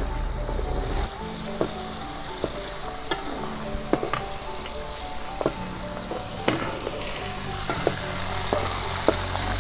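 Turkey berries (pokak) sizzling in hot oil in a steel wok, with sharp clicks and scrapes of a metal spatula against the wok as they are stirred, about one every second.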